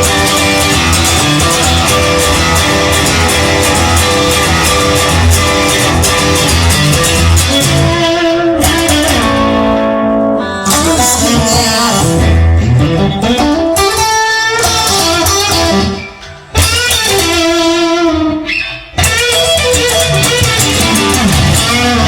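Blues song's instrumental break: electric guitar over bass and band, with bending, sliding notes. The sound drops out for a moment twice in the second half, then the full band comes back in.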